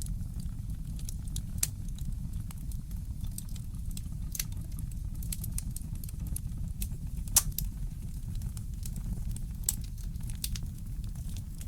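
Wood fire crackling in a fireplace: scattered sharp crackles and pops, a few louder snaps (the loudest past the middle), over a steady low rumble.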